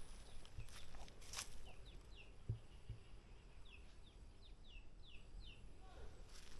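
A small bird chirping: a run of about a dozen short, high, falling chirps in quick succession, over a few soft footsteps on a village path.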